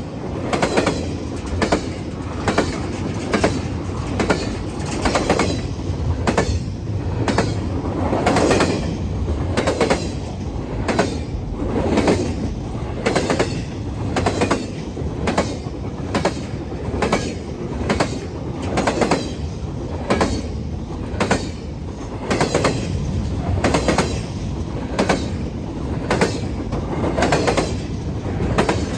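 Canadian National freight train rolling past, its car wheels clicking in a steady, regular rhythm over rail joints under a continuous rumble.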